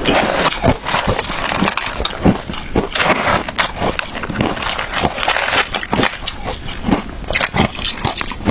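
Close-up chewing of crunchy shaved ice, a dense run of crackling crunches and snaps as the ice breaks between the teeth.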